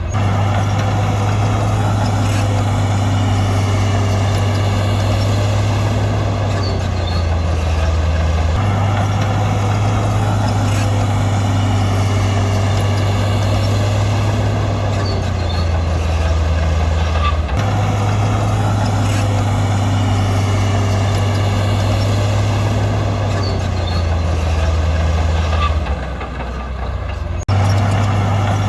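Heavy diesel engine of an earthmoving machine running steadily under load, its tone swelling and easing, with abrupt shifts about every nine seconds.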